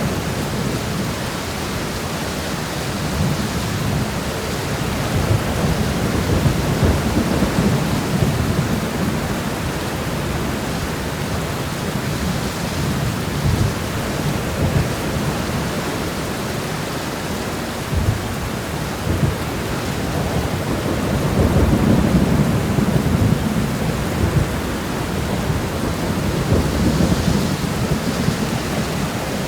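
Steady rain shower, an even hiss of falling rain, with a low rumble under it that swells and fades, strongest about three-quarters of the way through.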